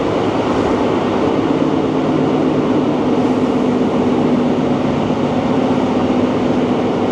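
Diesel passenger train running between stations, heard from inside the carriage: a steady running noise with a constant low hum underneath.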